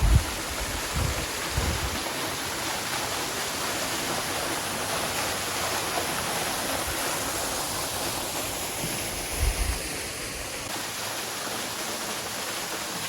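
Small waterfall pouring into a pool: a steady rush of falling water, with a few low bumps on the microphone near the start and again about nine and a half seconds in.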